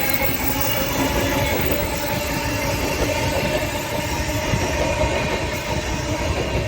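A train running past, with the steady, loud noise of its wheels on the rails.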